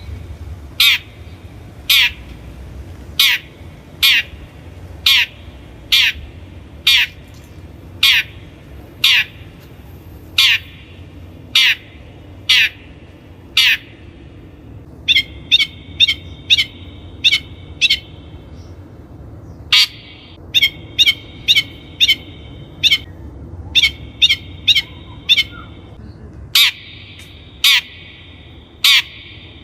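Long-tailed shrike giving repeated harsh, scolding calls, each short and falling in pitch. They come about once a second at first, then faster and often in quick pairs from about halfway through.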